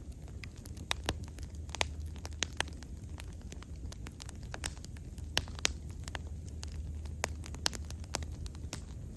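Wood bonfire crackling, with irregular sharp pops and snaps, a few much louder than the rest, over a low steady rumble.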